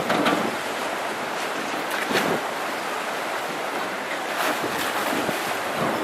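Wind gusting on the microphone over the rushing wash of waves, with a few louder gusts or splashes.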